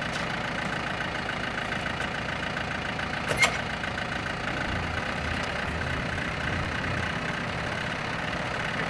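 Engine idling steadily, with one sharp knock about three and a half seconds in.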